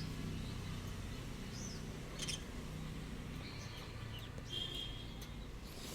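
Pet parrots giving a few soft, short high chirps and squeaks, with a brief click a little after two seconds in, over a low steady hum.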